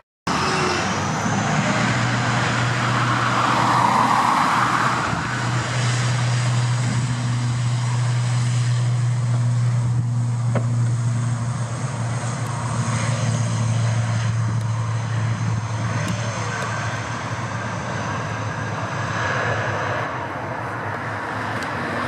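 ATR 72 twin-turboprop on its take-off run: a steady low propeller drone under a high turbine whine, with the drone dying away about sixteen seconds in.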